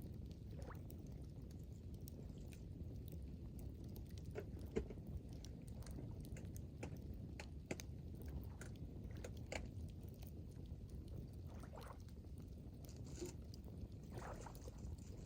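Wood campfire crackling: scattered, irregular sharp pops and snaps over a steady low rumble.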